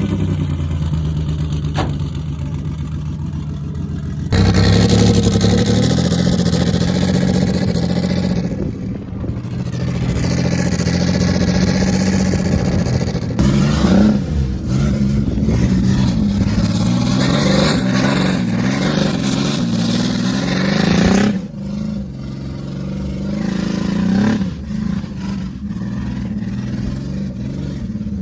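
Turbocharged Dodge Dakota engine revving hard, its pitch rising and falling over and over. A loud rushing noise runs over it from about four seconds in and cuts off suddenly about three quarters of the way through, leaving the engine running at lower revs.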